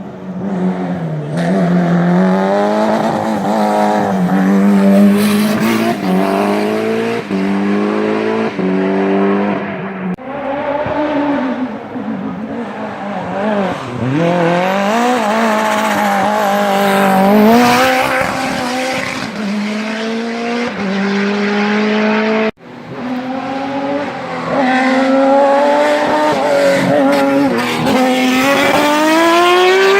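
Hillclimb race cars under full throttle, the engine note climbing and dropping again with each gearshift. The sound cuts abruptly twice, about ten seconds in and again near the two-thirds mark, between separate runs.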